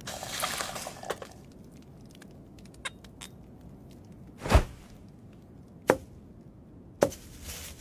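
Sound effects: a brief rustle, a few faint clicks, then three sharp knocks, the first the loudest.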